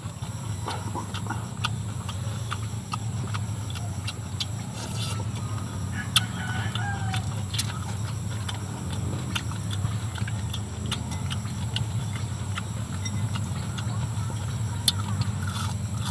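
Close-up chewing and lip-smacking of fried fish and rice eaten by hand, many small wet clicks, over a steady low hum, with a chicken clucking now and then behind.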